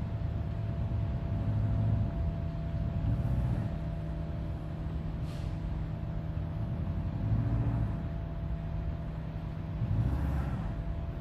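Car engine running at low speed, its low rumble swelling and easing several times as it takes a little throttle, with a thin steady whine over it.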